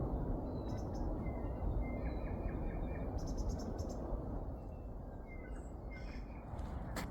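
Several birds chirping in short high notes, with a quick trill about three seconds in, over a steady low background rumble.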